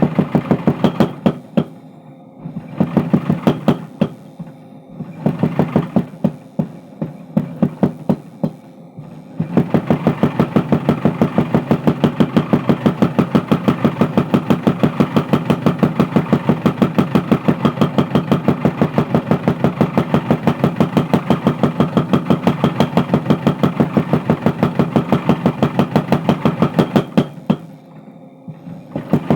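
Mechanical power hammer pounding a steel bar being forged into a crowbar. It strikes in short bursts of rapid blows with pauses, then in a long steady run of about five blows a second that stops shortly before the end. A lower machine hum carries on between the bursts.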